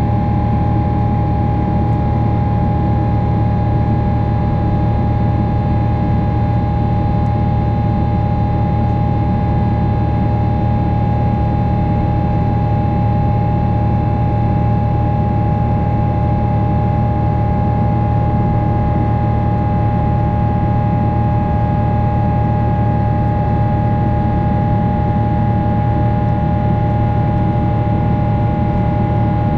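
Boeing 777-300 jet engines running steadily, heard inside the passenger cabin: a loud even drone with a steady high whine over it.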